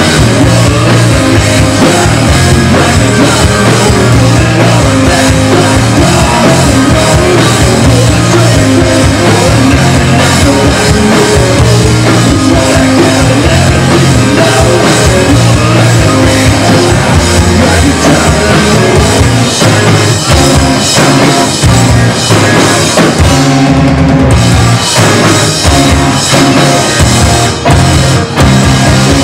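Live rock band playing loud, with a full drum kit, bass and guitars. The drums are driving, and the band cuts out briefly a few times near the end.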